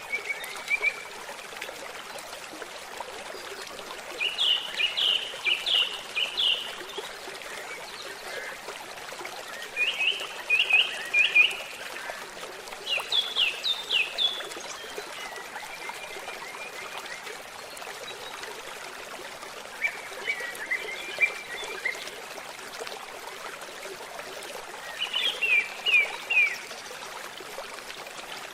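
A trickling, babbling stream runs steadily while a songbird sings short phrases of quick, falling notes, about five or six phrases a few seconds apart.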